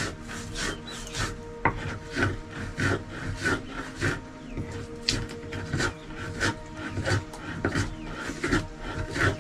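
Rhythmic rubbing or rasping strokes, about two to three a second, like something being scraped or worked back and forth by hand.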